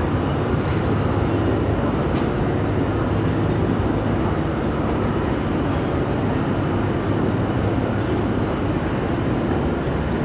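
Steady rumble of a moving train heard from on board.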